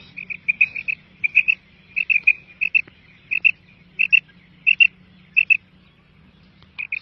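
Quail calling: short high chirps in pairs and threes, repeated every half second or so, with a pause shortly before the end, over a faint low hum.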